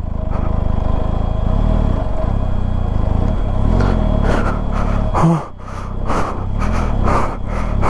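Benelli TRK 502X parallel-twin engine revving up and down under load as the bike labours up a steep, loose dirt climb. From about four seconds in, a rapid run of short noisy bursts comes over it.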